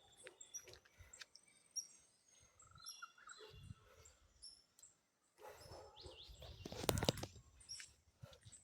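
Small birds chirping, many short high calls overlapping. About seven seconds in there is a brief, louder rustle.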